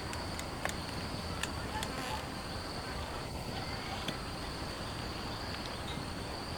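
Insects chirring with a steady high drone over an even background hiss. A few faint ticks come in the first few seconds.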